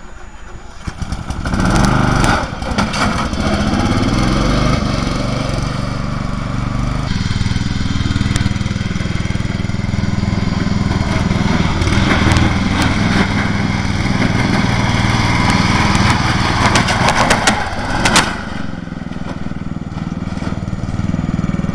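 Lawn mower engine running loud and steady as it is driven, with a short burst of sharp clatter near the end.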